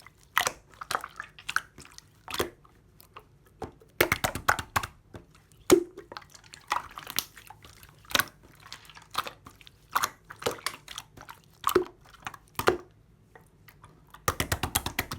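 Blue marbled slime being squished and poked by hand, giving irregular sticky pops and clicks, with bursts of dense crackling about four seconds in and again near the end.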